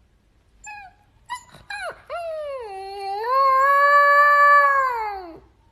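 A dog gives a few short yelps, then one long howl that rises, holds and falls away near the end.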